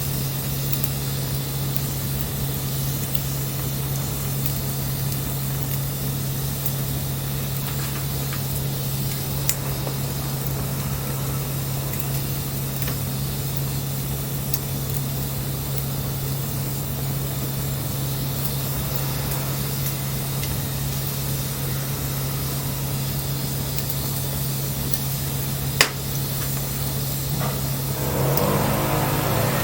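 Wood bonfire burning with a steady hissing and two sharp pops, about 9 seconds in and, louder, about 26 seconds in. The sound grows louder in the last two seconds.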